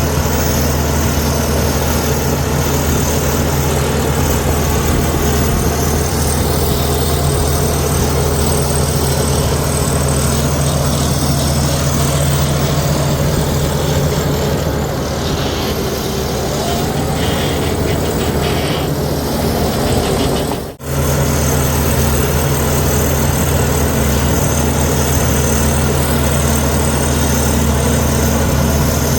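Heavy diesel engine of a Komatsu D61EX bulldozer running steadily at a constant pitch, dipping slightly in loudness for a few seconds and cutting out for an instant about two-thirds through.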